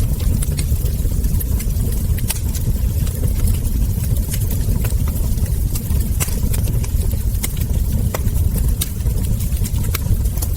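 Wood fire crackling, with frequent irregular sharp pops and snaps from the burning logs over a steady low rumble.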